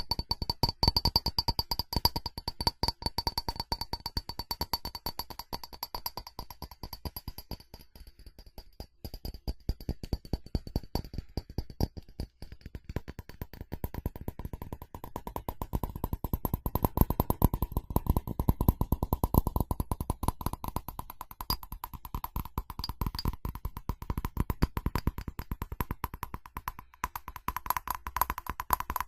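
Rapid tapping on a ceramic object, many taps a second, with the ceramic ringing faintly under the taps. The tapping eases for a moment about eight seconds in, then picks up again.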